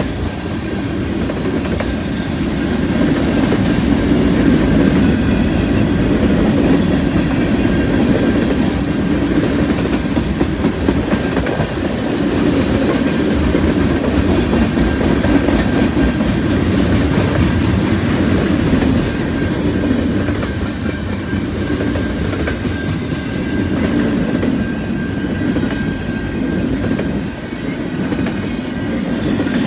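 Freight train cars rolling past: a steady rumble of steel wheels on rail with a run of clicks from the wheels over rail joints, first tank cars and then intermodal well cars near the end.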